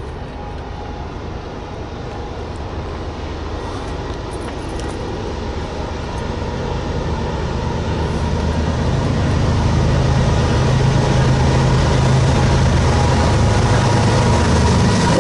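Approaching diesel-hauled train, its locomotive's engine drone and the rail noise growing steadily louder as it nears, the low drone strengthening from about halfway through.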